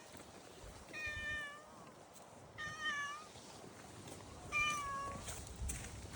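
A domestic cat meowing three times, short calls about a second and a half apart, each dipping in pitch at the end.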